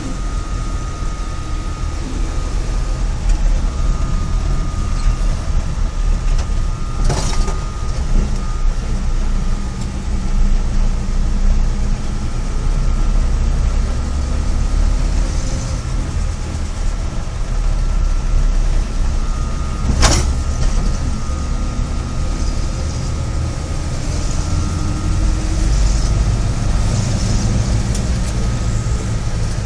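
GAZ-66 truck's rebuilt V8 petrol/LPG engine running steadily, dominated by the rush of the fan, with a thin steady whine over it. Two sharp clicks stand out, the first about seven seconds in and the second about twenty seconds in.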